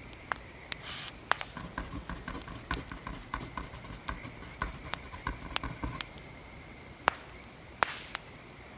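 Wood fire crackling, with sharp single pops scattered irregularly. Between about one and six seconds in, a denser run of soft scratching and ticking like a pencil writing on paper.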